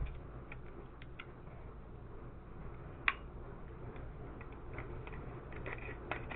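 Light clicks and taps of a partly stripped Glock pistol's metal and polymer parts being handled, with one sharper click about three seconds in.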